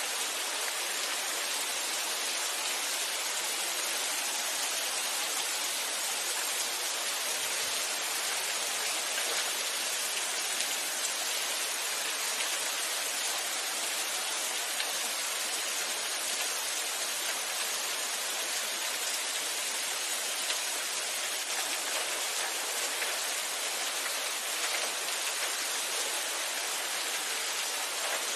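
Steady rain falling, an even hiss of countless drops with no breaks or changes.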